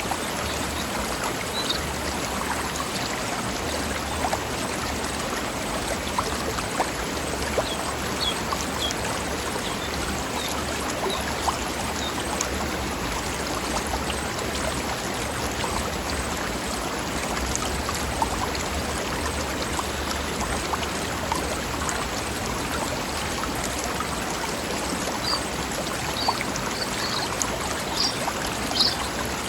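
Mountain stream flowing over rocks, a steady rushing and babbling of water. A few brief high peeps sound over it, most near the end.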